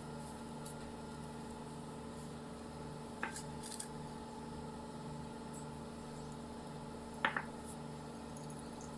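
Hands working melted butter into shredded kunafa dough: soft squishing and rustling of the buttery strands, with two brief sharper crackles about three and seven seconds in, over a steady background hum.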